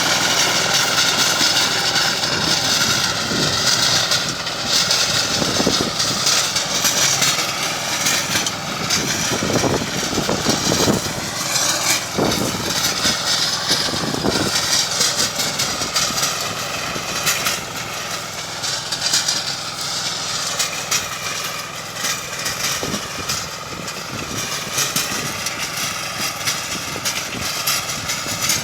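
Compact 4x4 tractor's 18 hp diesel engine running steadily while working a rototiller through soil.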